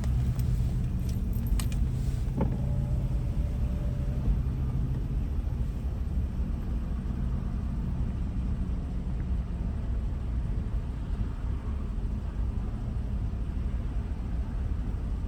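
Car engine and cabin rumble heard from inside a car creeping forward in a drive-thru line. A steady low hum lasts through the first few seconds, with a few light clicks about one and two seconds in.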